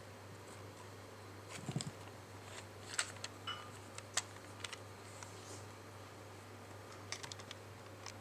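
Scattered light clicks and taps from an Anpanman toy mobile phone being handled: a small cluster near two seconds in, single clicks around three and four seconds, and a quick run near the end, over a steady low electrical hum.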